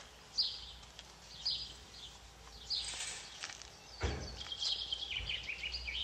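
Small birds chirping: short high calls about once a second, then a quick run of chirps near the end, over a low rumble that comes in partway through.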